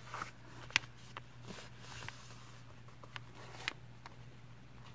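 A sheet of A4 paper being folded and creased by hand: soft rustling with a few short sharp ticks, over a faint steady hum.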